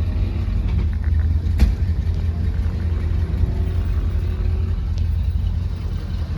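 Car engine running with a steady low rumble and one sharp click about a second and a half in.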